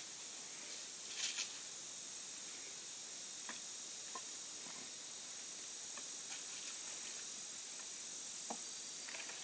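Steady high-pitched chorus of crickets and other insects, with a few scattered light clicks and rustles; the loudest is a short double crackle about a second in.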